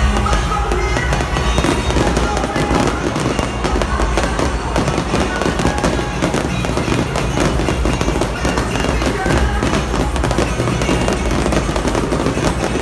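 A fireworks display: dense, continuous crackling and popping bursts, with loud party music and its steady bass underneath.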